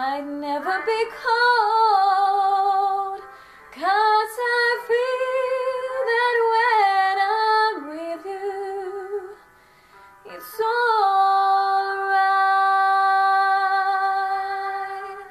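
A female voice singing a slow ballad in three long phrases with vibrato. The last note is held steady for about four seconds near the end.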